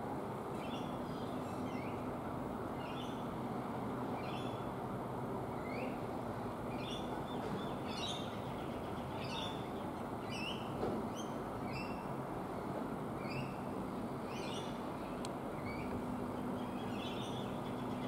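A bird chirping: short, high chirps repeated about once or twice a second, over a steady low background rumble.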